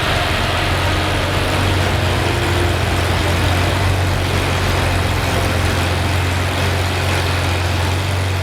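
Lamborghini Aventador SVJ's V12 with a Capristo exhaust idling steadily, a low even drone that eases slightly near the end.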